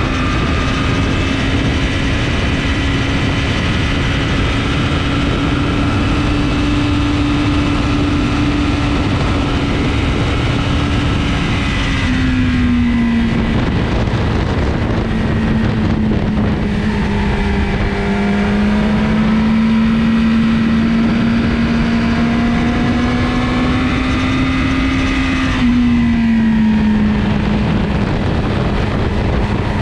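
Sport motorcycle engine running hard at a steady high pitch, with wind rushing past the onboard microphone. The engine note slowly climbs, dips in pitch about twelve seconds in, climbs again, and dips once more near the end.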